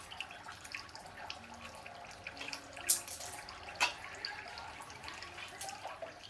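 Small plastic toy-kitchen pieces being handled, with light irregular clicking and tapping and two sharper clacks about three and four seconds in.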